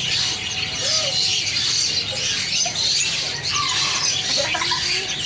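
Many caged songbirds chirping and calling at once, a dense, steady high-pitched chatter.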